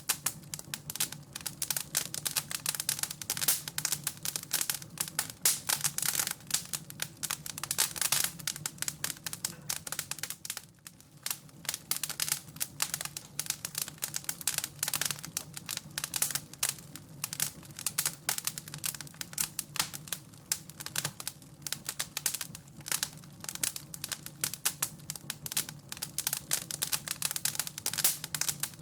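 Wood fire in a fireplace crackling continuously: dense, irregular snaps and pops, briefly thinner about eleven seconds in, over a steady low hum.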